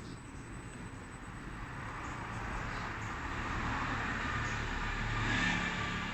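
UniMac 130-pound industrial washing machine running on a test run: a steady low hum with a rushing noise that grows louder toward the end.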